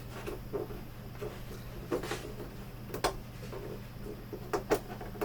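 Plastic prying tools clicking and knocking against a computer monitor's plastic casing as it is pried apart: a few separate sharp clicks, two in quick succession near the end, over a low steady hum.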